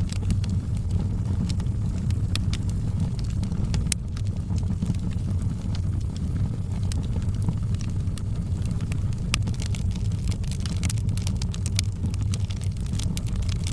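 Wood fire burning in a fireplace: a steady low roar of flame with scattered sharp crackles and pops, which come thicker near the end.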